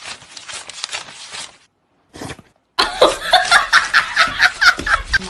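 A person laughing hard in quick repeated bursts, from about three seconds in.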